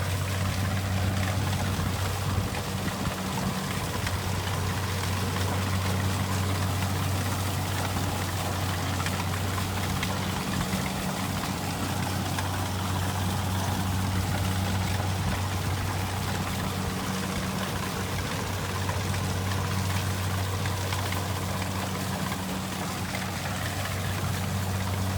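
Kubota rice combine harvester running steadily: a constant low diesel engine hum under an even, rushing mechanical noise.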